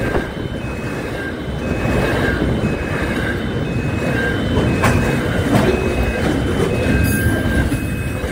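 Double-stacked container freight wagons rolling past at speed: a steady, dense rumble of wheels on rail. Over it, an electronic level-crossing warning beeps in a repeating pattern.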